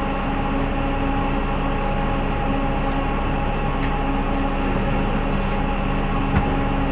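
City bus in motion heard from inside the cabin: a steady hum of engine, drivetrain and road noise with a few steady whining tones, and a light knock about six seconds in.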